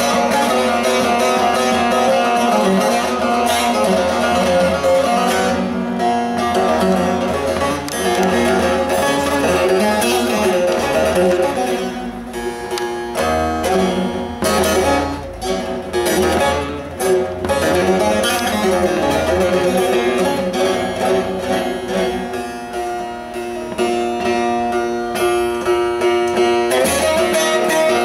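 A bağlama (Turkish long-necked saz) with a carved mulberry bowl played with a plectrum, in quick runs of plucked notes over its ringing strings.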